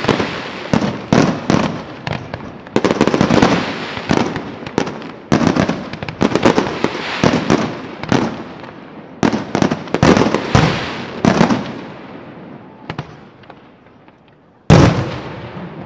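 Aerial firework shells bursting in rapid salvos: many sharp bangs, each with a long rolling echo. The bursts thin out after about twelve seconds, then one last loud bang comes near the end.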